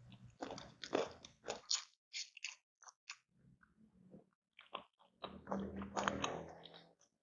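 Close-up crunchy chewing of fried chicken and raw vegetables. A quick series of crisp crunches comes in the first two and a half seconds, then a quieter stretch, then more steady chewing starting about five seconds in.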